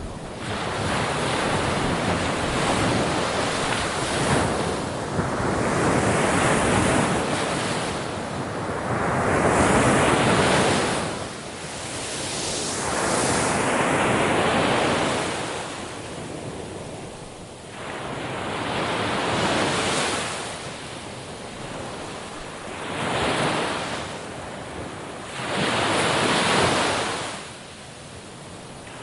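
Ocean waves breaking on a shore, the surf swelling and falling away every three to six seconds.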